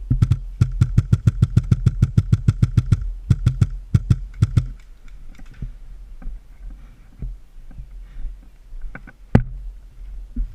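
Airsoft gun firing rapid full-auto bursts, about eight sharp shots a second over a steady motor whine for the first three seconds, then shorter bursts and a few single shots, one loud shot near the end.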